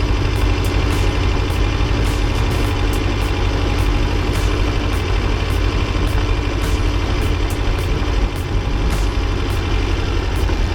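T-25 tractor's two-cylinder air-cooled diesel engine running steadily, a constant low drone.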